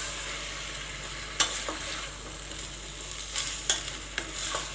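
Green fava beans and garlic sizzling steadily in ghee in a pot as they are stirred, with a few sharp clicks of the spoon against the pot.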